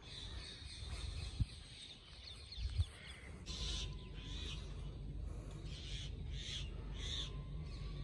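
Birds calling in a string of short, high calls, most of them in the second half, over a steady low rumble. Two brief soft thumps come in the first three seconds.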